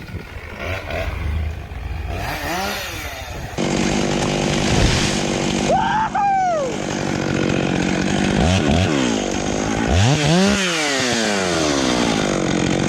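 Chainsaw engine running, getting much louder about a third of the way in and then revving up and down several times.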